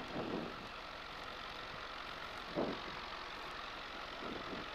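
Varga 2150A's Lycoming four-cylinder piston engine idling steadily on the ground, heard from inside the cockpit, with a few brief faint sounds over it.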